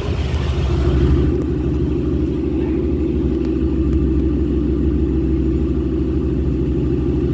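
Vehicle engine idling steadily, a deep exhaust rumble that swells slightly about a second in and then holds an even pitch.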